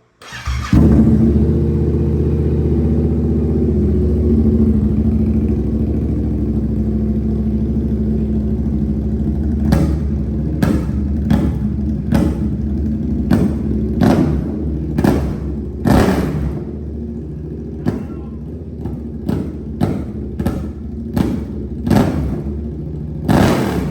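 Yamaha R7's 689 cc parallel-twin engine through a full SC Project exhaust, starting up just under a second in and settling into a steady idle. From about ten seconds on it is revved in about a dozen short, sharp throttle blips, each dropping back to idle.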